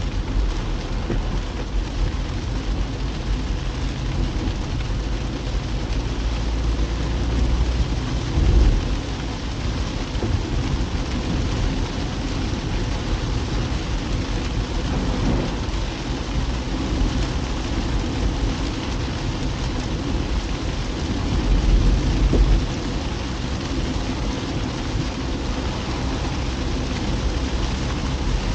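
Heavy rain, heard as a steady hiss, along with the low rumble of a car driving on a wet road. Two louder low rumbles come about a third of the way in and again near three-quarters.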